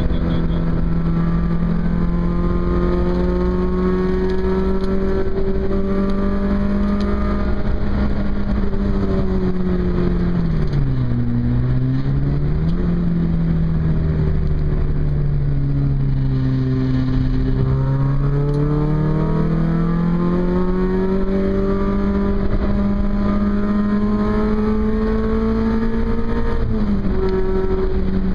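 Car engine heard from inside the cabin: its note holds steady, falls away about ten seconds in, then climbs slowly under acceleration and drops suddenly near the end. A steady low rumble of road and wind noise runs underneath.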